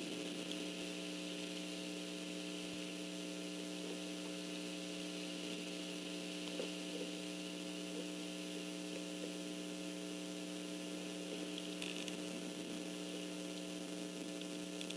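Steady electrical mains hum in the audio feed, a stack of even tones, over a faint hiss, with a few faint ticks.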